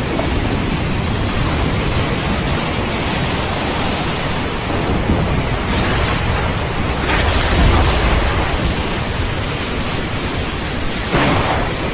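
Steady heavy rain with rolling thunder, a low rumble swelling about seven seconds in.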